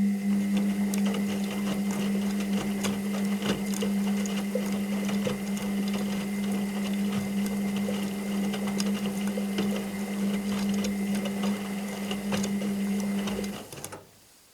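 Washing machine turning its drum during a wash: a steady motor hum with fast rattling and clicking throughout, stopping suddenly near the end as the drum pauses.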